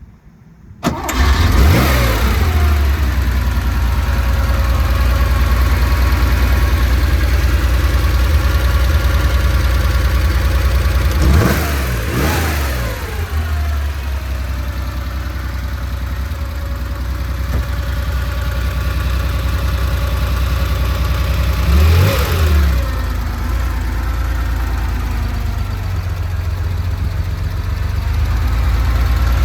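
1970 Porsche 911 Targa's air-cooled 2.2-litre flat-six starting about a second in, then idling steadily with three quick throttle blips about ten seconds apart.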